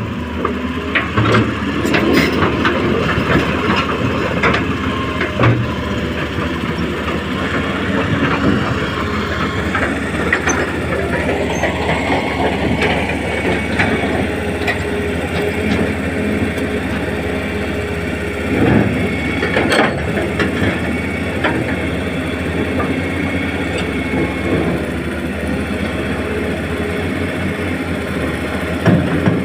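Electric motors and gearboxes of a Hitachi 1593 RC excavator whirring steadily as it digs a trench, with frequent short clicks and knocks from the machine working the soil.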